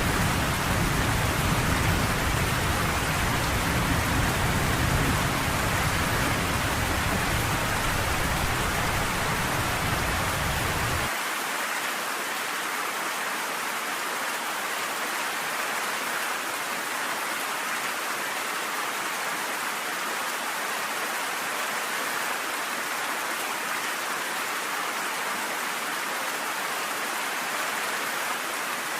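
Steady, even rainfall with a deep low rumble underneath that cuts off abruptly about a third of the way in, leaving only the rain.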